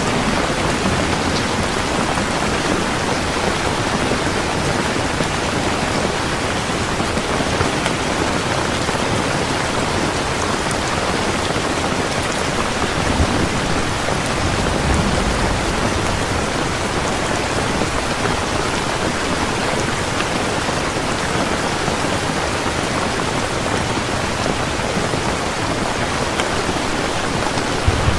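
Heavy rain falling steadily in a dense, even downpour, with a low rumble of thunder about halfway through.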